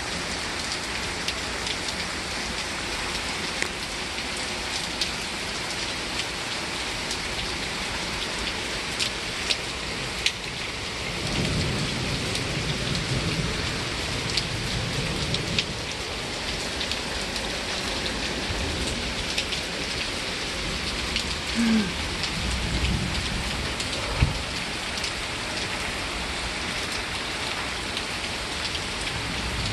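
Steady rain falling, with many small drip ticks throughout, during a thunderstorm. Low rumbles of thunder roll in about a third of the way through and again about two-thirds of the way through.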